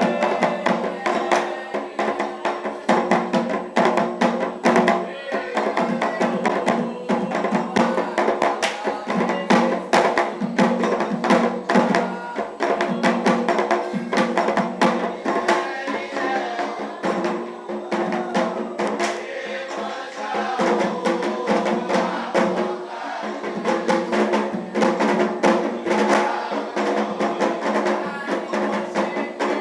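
Afro-Brazilian ritual drumming on atabaque hand drums in a fast, unbroken rhythm, with a sharp clicking struck part over the drums and voices singing along.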